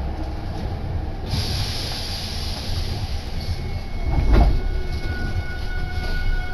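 Hankyu Kobe Line electric commuter train running, heard from inside the car: a steady low rumble, with a hiss coming in about a second in and a brief louder rumble around four seconds. Just after that a steady high whine from the traction motors sets in.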